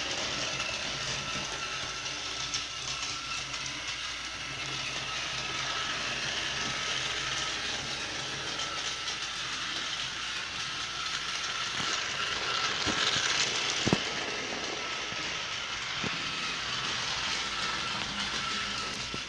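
Battery-powered TOMY Thomas toy train running on plastic track: a small electric motor whirring steadily with rattling wheels and cars, and a sharp click about two-thirds of the way through.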